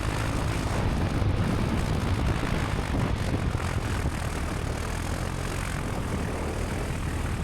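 Single-engine piston airplane's engine and propeller running steadily at low power, heard from inside the cabin while the plane lines up on the runway before the takeoff run.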